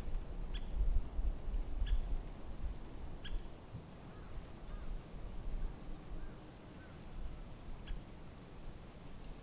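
A bird giving short, sharp single calls, three about a second and a half apart and one more near the end, over a gusting low rumble of wind on the microphone, heaviest in the first few seconds.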